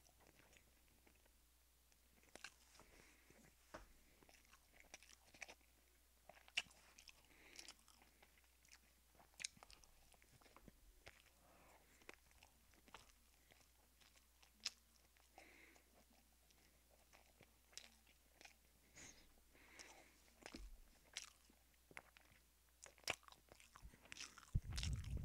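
Close-miked chewing and eating sounds: irregular sharp mouth clicks and short smacks as food is bitten and chewed, with a louder low bump near the end.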